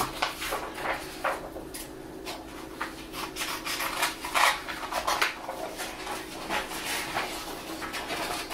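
Construction paper and scissors being handled and cut: irregular paper rustles and light snips and clicks.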